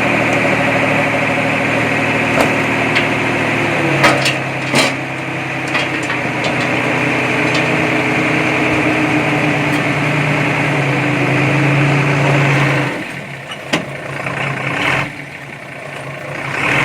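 Heavy earthmoving machine engine running steadily under load, its pitch shifting about four seconds in, with a few sharp knocks and clanks around then. The engine note falls away about thirteen seconds in, with a couple more knocks, and comes back strong near the end.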